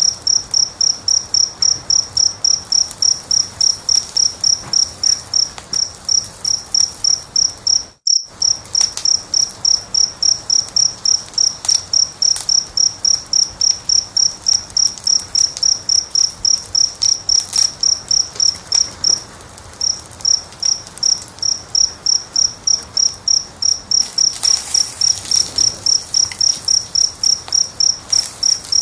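A cricket chirping steadily in quick, even high-pitched pulses, about three a second, over faint crackling of a wood fire. The sound drops out completely for a moment about eight seconds in, and the chirping pauses briefly a little after halfway.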